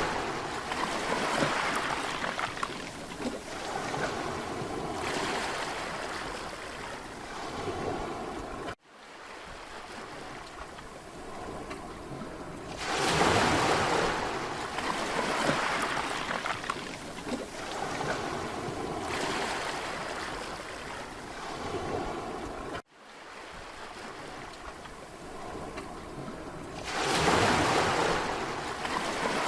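Sea waves washing onto a beach, the surf noise swelling and fading as each wave comes in and draws back. The sound cuts out suddenly for an instant twice, about a third of the way in and about three-quarters through.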